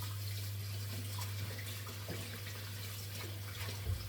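Water running from a kitchen tap, with a steady low hum under it and a short thump near the end.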